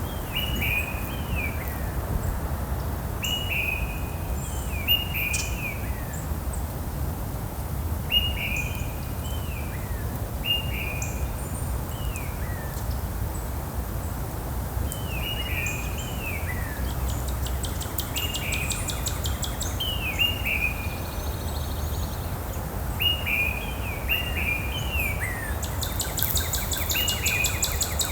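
Birds calling outdoors: short downward-slurred chirps, often two in quick succession, repeating every few seconds. A fast buzzy rattle joins twice, about two-thirds of the way through and near the end, over a steady low rumble.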